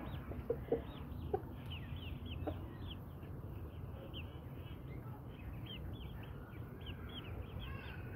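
Brahma chickens peeping rapidly in short, high notes, with a few brief low clucks in the first few seconds, over a steady low rumble.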